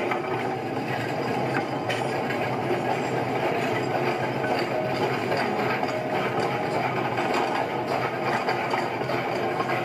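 A machine running steadily, an even, dense mechanical noise with a few faint clicks.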